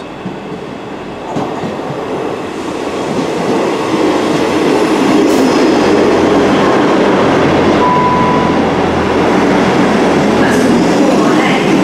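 A South Western Railway Class 158 diesel multiple unit arrives at the platform. Its noise builds over the first few seconds as it approaches, then stays steady and loud as the carriages pass close by, with a short high tone about eight seconds in.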